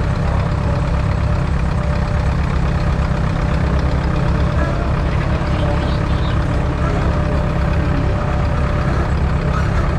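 Antique tractor engine running steadily with a heavy low rumble.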